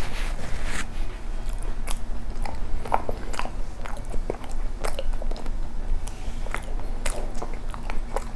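Close-miked chewing of a mouthful of soft cream bread, with irregular wet mouth clicks and smacks. A tissue rustles against the lips at the start.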